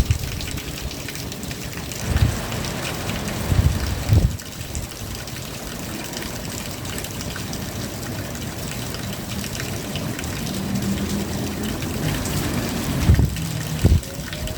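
Steady rain falling, with many scattered drops pattering close by. A few brief low thumps come through about two and four seconds in and twice near the end.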